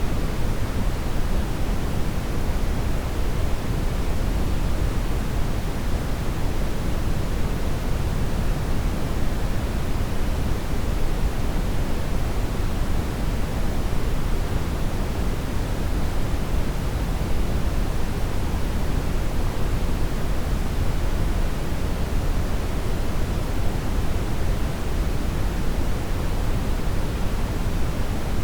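Steady, unbroken brown noise, a deep rumbling hiss that is heaviest in the low end and thins out toward the top.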